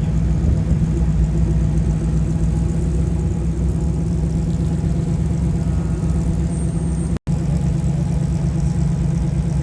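Car engine idling steadily close by, a low rumble that cuts out for an instant about seven seconds in.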